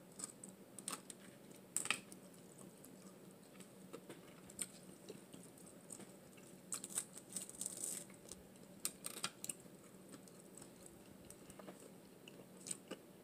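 Close-miked chewing of a crunchy fried hush puppy: scattered soft crunches and small mouth clicks, with a busier run of crunching about halfway through.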